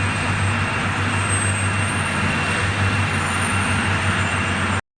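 Steady drone of a heavy vehicle's engine running, with a low hum and a thin high whine over a rushing noise. It cuts off abruptly near the end.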